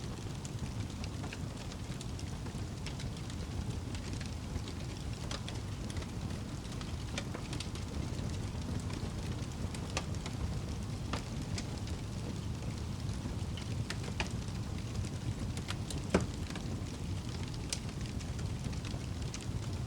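Wood fire burning in a fireplace: a steady low rumble of flames with scattered crackles and snaps, and one sharper pop about 16 seconds in.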